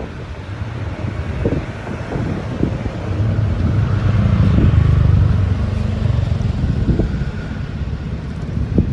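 Low vehicle rumble that grows louder to a peak in the middle and then eases off, as something passes close by, with scattered short thumps.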